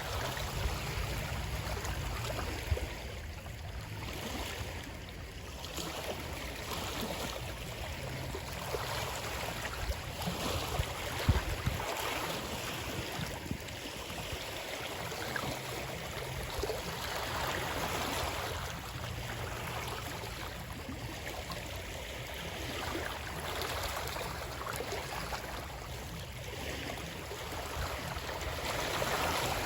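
Running water, a steady rushing wash that swells and eases every few seconds, with a low rumble beneath and a couple of brief low knocks.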